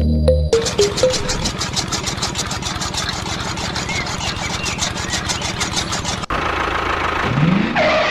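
Miniature chaff cutter running, its flywheel spinning and the blade chopping leaves with a fast, even clatter. About six seconds in this gives way to a small motor whose whine rises in pitch near the end.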